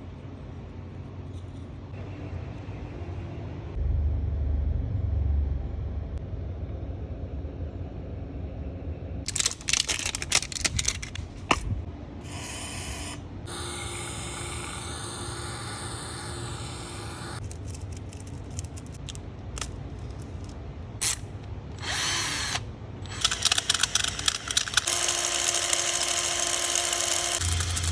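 Power tool running in several bursts of a few seconds each, over a steady low hum, while carbon build-up is cleaned off an engine's intake valves.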